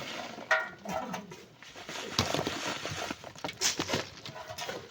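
Irregular knocks and scrapes, typical of hand tools striking and digging into a sand and rock face.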